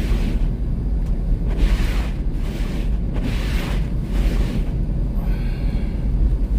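Inside a car driving slowly on a snow-covered road: a steady low rumble of tyres and engine, with hissing swishes rising and falling every second or two.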